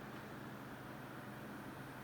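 Midea Ionizer air conditioner running: a steady rush of air from its fan with a low, even hum beneath.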